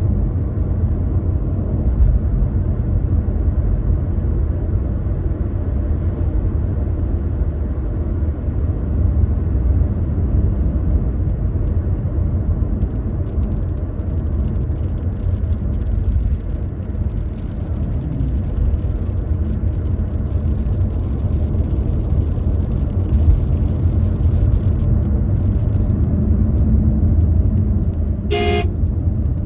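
A car driving, heard as a steady low rumble of engine and road noise. A brief sharp tonal sound cuts in near the end.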